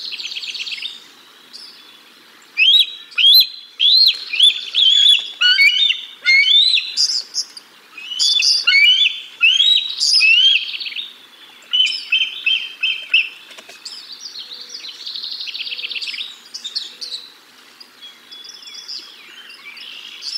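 Birds calling: a loud series of high chirps that rise and fall, several a second, with fast buzzy trills before and after.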